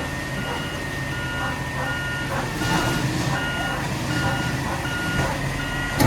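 Mack LR garbage truck's backup alarm beeping at an even rate as the truck reverses, over the low, steady running of its diesel engine.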